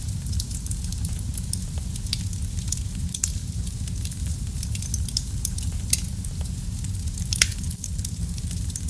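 Wood fire burning in a fireplace: a steady low rumble of flames with scattered crackles, and two sharper pops, one about six seconds in and one shortly after.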